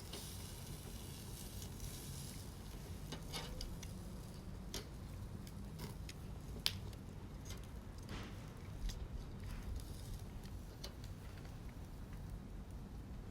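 Wood campfire crackling, with scattered sharp pops and snaps; the sharpest snap comes a little past halfway.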